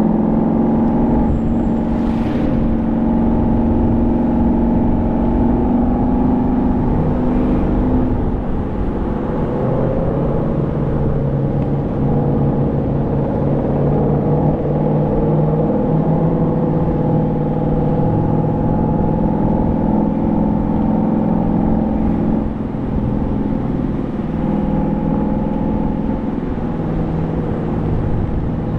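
Car engine running under way with steady road rumble; the engine note drops to a lower pitch about eight seconds in and then holds steady.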